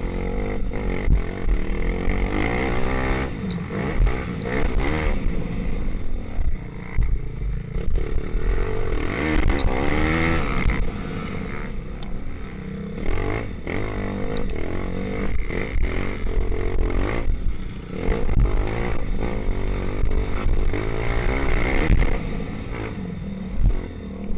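Racing pit bike engine revving hard, its pitch rising and falling again and again as it accelerates and backs off.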